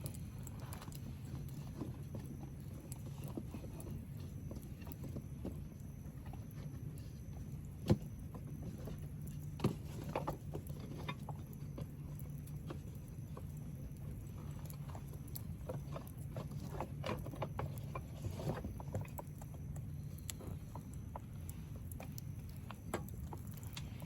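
Wood fire crackling in a fire pit: irregular small pops and snaps, with a louder pop about eight seconds in and another soon after, over a low steady hum.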